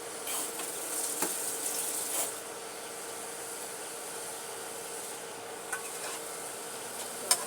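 Cooking pot and utensils being handled: a scraping, stirring rustle in the first two seconds, then a few sharp clinks, the loudest near the end, over a steady hiss.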